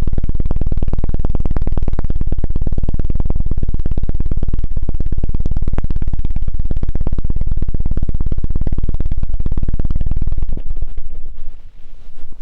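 ASMR 'helicopter' ear-cleaning sound: a rapid, even stream of deep thuds beaten against the microphone to imitate a helicopter's rotor. It breaks up and fades about ten and a half seconds in.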